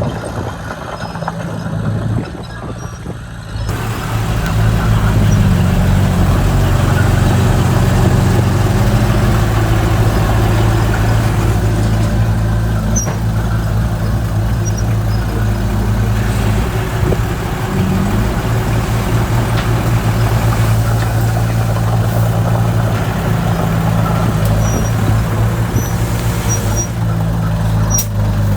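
Heavy diesel engine of earthmoving machinery or a dump truck running steadily, working harder and louder from about four seconds in.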